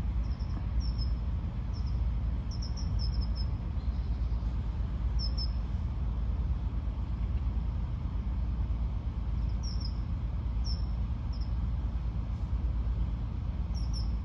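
Small birds chirping: short, high notes scattered through, several in quick runs, over a steady low rumble.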